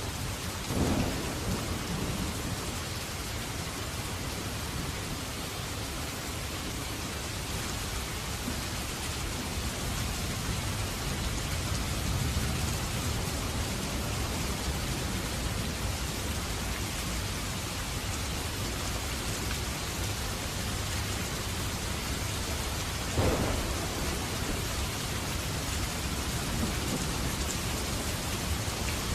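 Steady heavy rain falling, with two short rolls of thunder, one about a second in and one a little over three-quarters of the way through.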